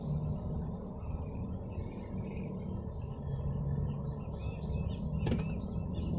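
Low steady rumble of a car engine idling, with a few faint high chirps and one sharp click about five seconds in.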